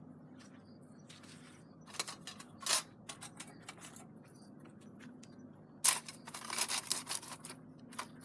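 Clicks and scrapes of hands handling a wooden stick as raw meat is pushed onto it as a skewer, with a loud click near the start and a quick run of clicks about six seconds in, over a faint steady low hum.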